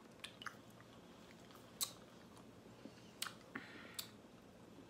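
Close mouth noises of someone chewing a chewy sour candy: a few scattered sharp, wet clicks and smacks.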